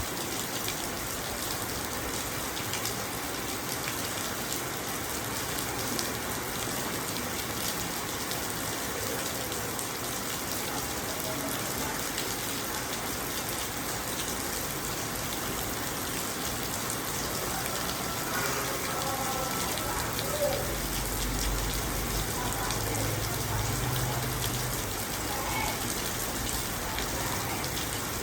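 Steady rain pattering on a car's windows and body, an even dense hiss. About two-thirds of the way through, a low rumble comes in for several seconds and then fades.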